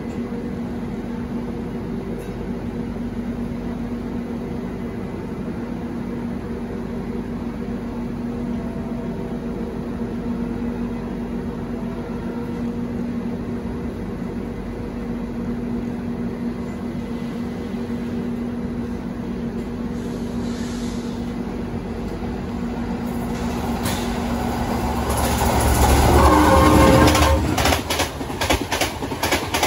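Running noise of a slow-moving Indian Railways express train, heard from an open coach door, with a steady hum. Near the end another train comes alongside on the adjacent track: the noise swells to a loud rush, then breaks into rapid wheel clatter over the rail joints.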